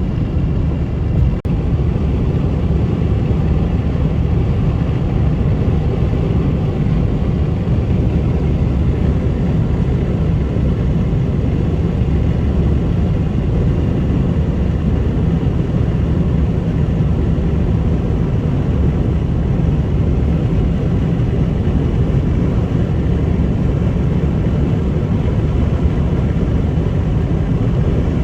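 Steady road noise of a car cruising at highway speed, heard from inside the cabin: an even low rumble of tyres and engine with wind, and a single faint click about a second in.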